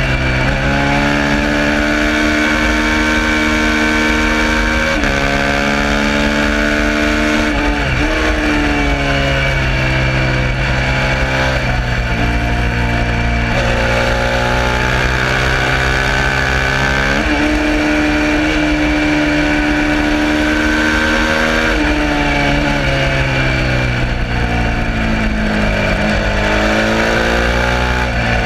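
Suzuki SV650's V-twin engine at race pace under full throttle. The pitch climbs through each gear and drops suddenly at several upshifts, holds steady for a long stretch, then falls as the bike slows near the end before picking up again.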